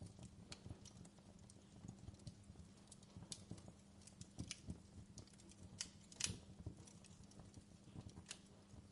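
Faint fireplace crackling: irregular small pops and snaps of burning wood, with a sharper pop a little after six seconds in, over a low steady hum.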